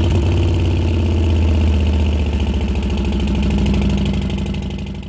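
A vehicle engine idling steadily with a low, even beat, fading out near the end.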